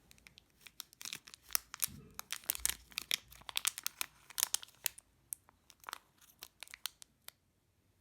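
Crinkling and tearing of handled material, a dense run of sharp crackles that thins out and stops shortly before the end.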